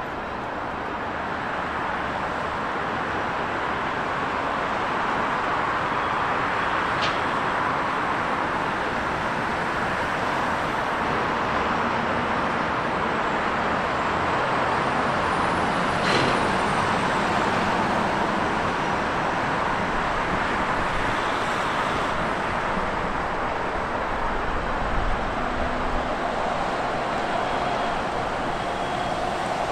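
A train running through the station with a steady rolling and running noise. There is a short high squeak about seven seconds in, and a faint high whine rises and falls around the middle.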